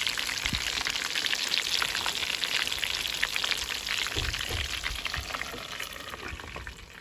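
Ayam kalasan chicken pieces deep-frying in a pan of hot oil: a dense, steady crackling sizzle. Near the end, after a few low knocks, a lid goes on the pan and the sizzle grows quieter.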